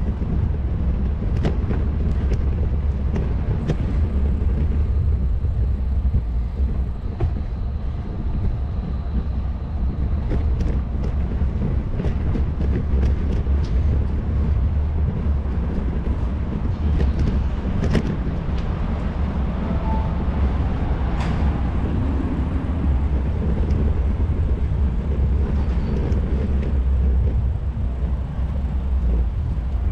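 Steady low rumble of a bicycle in motion, picked up by a bike-mounted GoPro: road and wind noise, with scattered short clicks and rattles.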